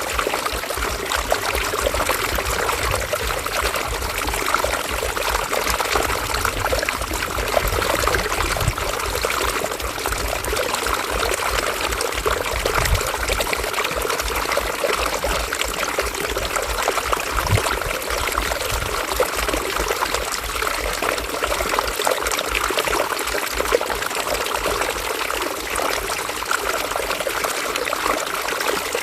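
River water running and trickling over stones, a steady babbling with small splashes.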